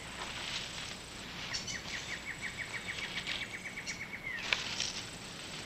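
Rainforest animal call: a trill of short chirping notes at one pitch, about six a second, starts about a second and a half in, lasts under three seconds and ends on an upward sweep, over faint scattered chirps and hiss. A single sharp click follows just after it.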